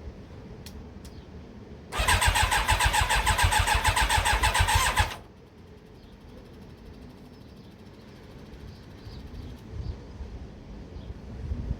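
Yamaha YZF1000R Thunderace's inline-four engine being turned over on the electric starter for about three seconds without catching, then stopping suddenly. It does not fire because the fuel petcock was off, so no petrol reached the freshly rebuilt carburettors.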